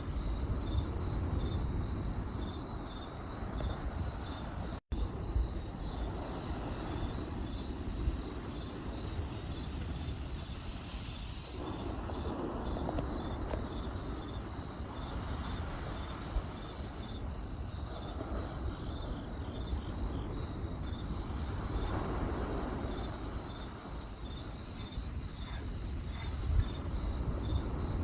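Crickets chirping in a steady, fast pulsing trill over the low rush and scattered sharp pops of a crackling campfire. The sound cuts out for an instant about five seconds in.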